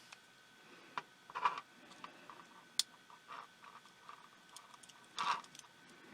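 Small, irregular clicks, taps and short scrapes of hands and tools working on a pico projector's small plastic and metal parts, the two loudest scrapes about a second and a half in and near the end.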